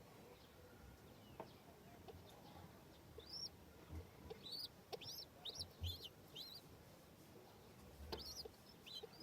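Baby chicks cheeping faintly: short, high peeps in quick clusters, about a dozen between three and six and a half seconds in and a few more near the end.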